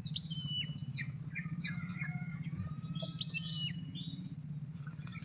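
Small birds chirping: many short, high whistled notes and quick downward slurs, over a steady low hum.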